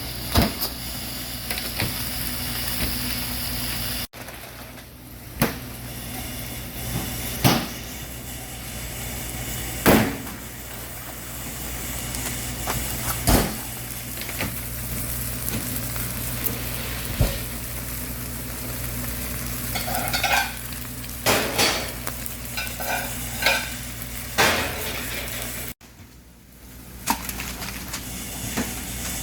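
Chicken sizzling as it cooks, with sharp knocks and clatter of metal pans and utensils every few seconds and a busier run of clattering near the end.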